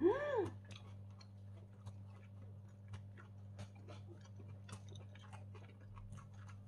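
A short hummed 'mmm' that rises and falls in pitch, then quiet chewing of grilled beef wrapped in a perilla leaf, with faint irregular mouth clicks over a low steady hum.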